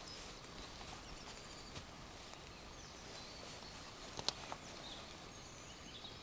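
Faint outdoor ambience with a few short, high bird chirps, and one sharp click a little past the middle.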